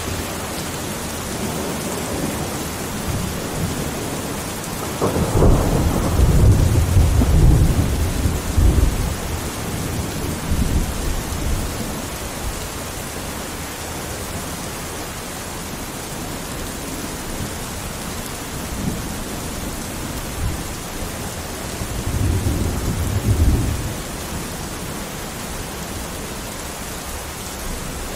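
Steady rain with rolling thunder: a long low rumble about five seconds in and a shorter one near the end.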